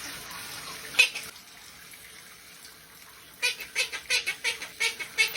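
Water running from a tap. From about three and a half seconds in, a pet parrot chatters in a quick run of short calls, about five a second.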